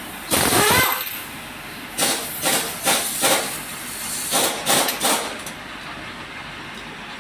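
Compressed-air tool hissing in short bursts during a tyre puncture repair: one longer burst with a falling whine about half a second in, then about seven short bursts.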